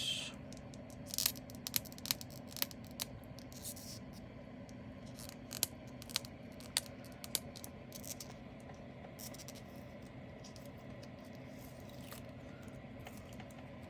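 Scattered light clicks, ticks and plastic rustling from hands handling small bags of resin diamond-painting drills. The clicks are busiest in the first half and thin out later.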